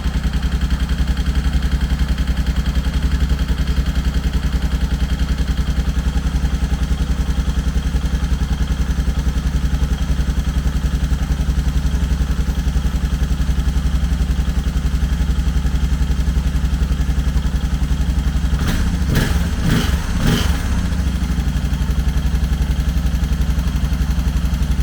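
Suzuki DR650's single-cylinder four-stroke engine running steadily on choke, just after its first start following a rebuild. About three-quarters of the way through there are a few short, louder sounds.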